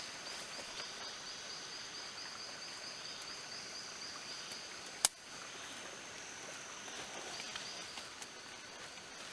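Rainforest ambience: an insect chirping steadily in a fast, even pulse of several high chirps a second over a steady high drone, with one sharp click about five seconds in.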